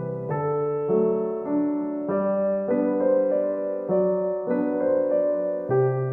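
Background music: a gentle electric piano playing slow sustained chords that change about every second.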